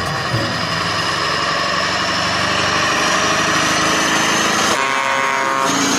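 A steady engine-like running sound, with a high whine that sinks slowly in pitch. About three-quarters of the way through, a buzzing hum joins it.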